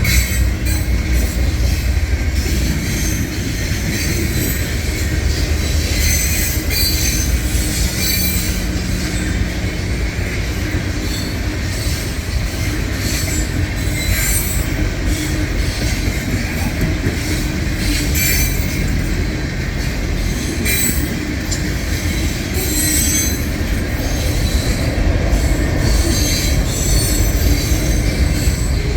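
CSX intermodal freight train rolling past at close range: a steady heavy rumble of cars on the rails, with high-pitched wheel squeals coming and going every second or two.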